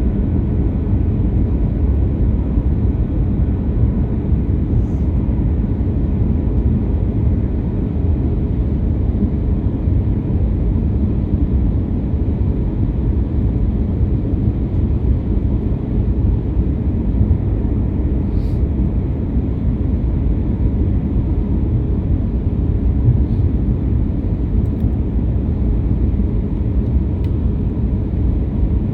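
Airliner cabin noise: a steady low rumble of engines and airflow heard from inside the cabin.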